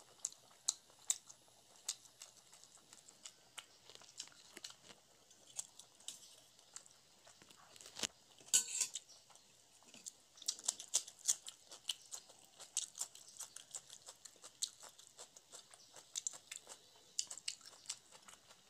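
Close-up chewing of paratha dipped in chana masala: a steady run of quick clicking mouth sounds, with one louder burst a little before halfway.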